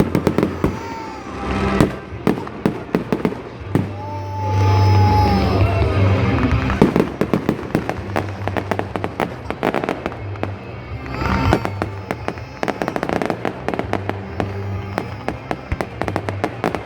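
Fireworks going off: many sharp bangs and rapid crackling, growing denser in the second half.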